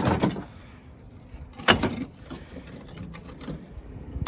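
Sharp knocks and clatter of brick and junk debris being handled, with one cluster at the start and a single loud knock a little under two seconds in.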